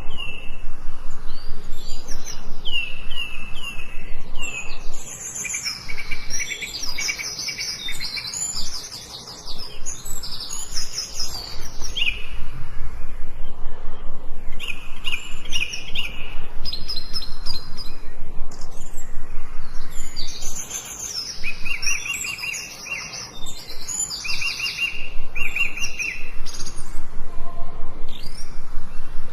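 Several songbirds singing and chirping together, with quick repeated high chirps and trills overlapping throughout.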